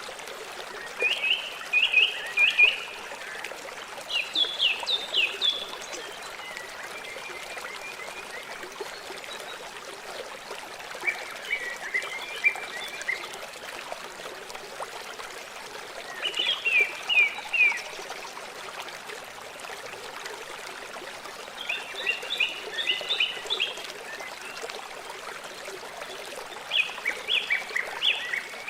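River water flowing with a steady rush, while a songbird sings short phrases of quick repeated notes every few seconds.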